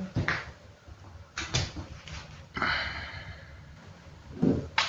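Metal clicks and knocks with a short scraping squeak about halfway through: the fittings of a cast-iron stove being handled, its door or ash drawer worked.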